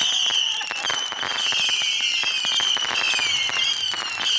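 Consumer fireworks going off: a shrill whistling that slides slowly down in pitch and starts again about once a second, over dense crackling pops.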